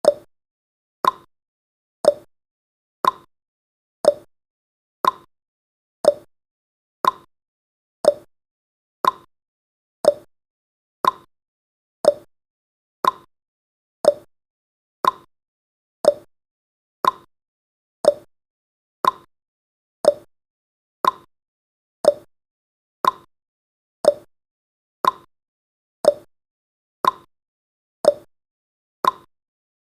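Countdown timer's clock-tick sound effect: a sharp tick every second, evenly spaced, with alternate ticks a little higher and lower in pitch like a tick-tock.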